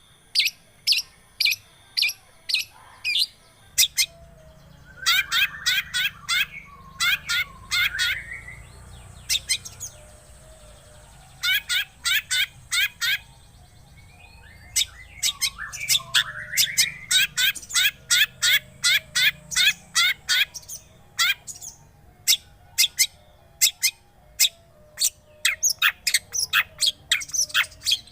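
Long-tailed shrike (cendet) singing: a run of sharp, high call notes about two a second, broken twice by stretches of lower, scratchy warbling chatter.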